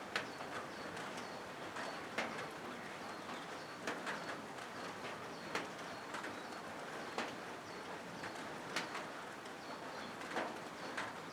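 Steady rain pattering on a corrugated zinc roof, with a sharper drop knocking on the metal about every second and a half. Short high chirps repeat faintly throughout.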